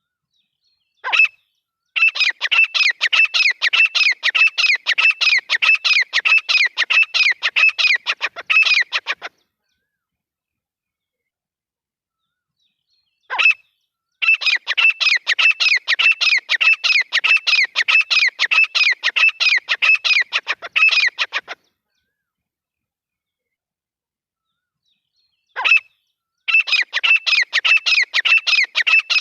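Grey francolin calling in three bouts. Each bout opens with one short note, then runs into about seven seconds of rapidly repeated notes. The bouts are separated by a few seconds of silence, and the third is still going at the end.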